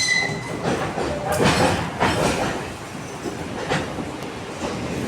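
A train running past, its wheels knocking irregularly over the rail joints. A steady high tone dies away about half a second in.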